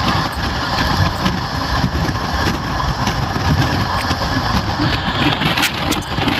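Indian Railways train running, a steady rumbling noise with a few short clicks near the end.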